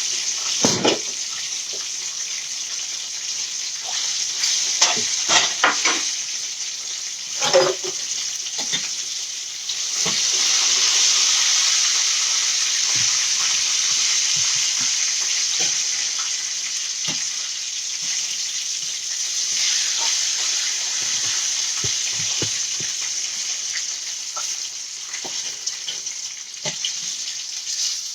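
Food frying in hot oil: a steady sizzle, with a few sharp knocks of a utensil on the pan in the first eight seconds. The sizzle grows louder about ten seconds in.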